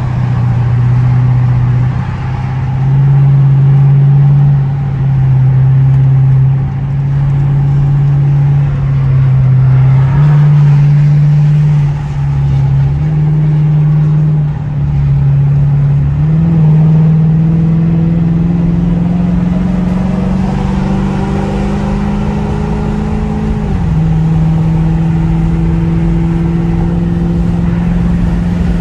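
Dodge Charger R/T's HEMI V8 through a straight-piped exhaust, heard from inside the cabin with the windows cracked. The exhaust drone rises and falls with the throttle, then climbs slowly in pitch over several seconds and drops suddenly near the end.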